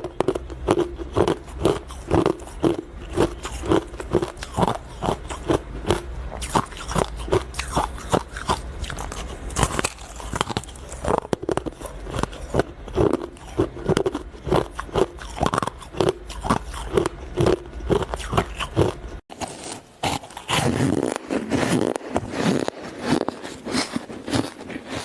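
Ice being bitten and chewed close to the microphone: a steady run of sharp crunches, roughly two a second. About three-quarters of the way through there is an abrupt cut to denser, more continuous crunching.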